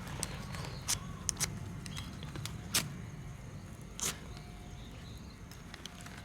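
A handful of sharp clicks and snaps, five in about four seconds, over a steady low rumble.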